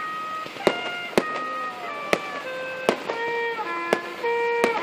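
Aerial firework shells bursting in about six sharp bangs, roughly one a second, over music with held notes.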